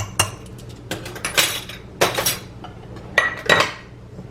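Spoons and dishes clinking and knocking: a quick run of sharp clinks, a few ringing briefly.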